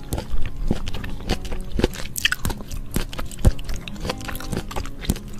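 Close-miked chewing of raw octopus: an irregular run of short mouth clicks and smacks, two or three a second.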